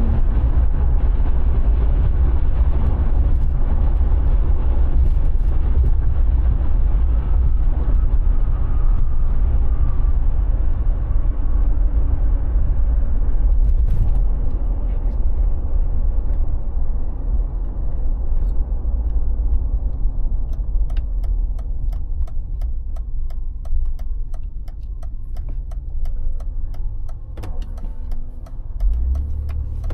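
Mercedes G36 AMG's 3.6-litre straight-six and road noise while driving, a heavy low rumble. It eases off about two-thirds of the way through as the truck slows, with faint rapid ticking over the last part and the engine building again near the end.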